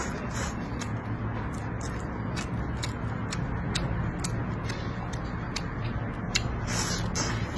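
Close-up chewing of food, with wet mouth clicks and smacks about twice a second over a steady low hum, and a louder smack near the end.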